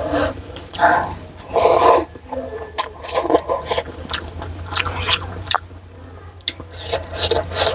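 Close-miked eating: chewing with repeated sharp crunches and wet mouth sounds, over a steady low hum.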